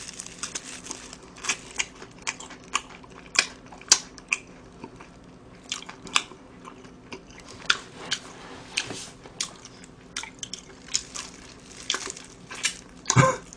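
A person chewing and biting crispy fried chicken close to the microphone: frequent short crunches and wet mouth sounds, about one or two a second. One brief, louder throaty sound comes near the end.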